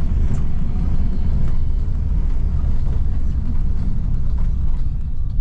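Steady low rumble of a vehicle in motion, heard from inside, with a few light clicks and rattles.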